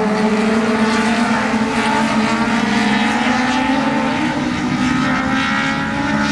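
A pack of dwarf race cars at speed, their motorcycle engines running at high revs. Several engine notes overlap and drift up and down in pitch as the cars lap the track.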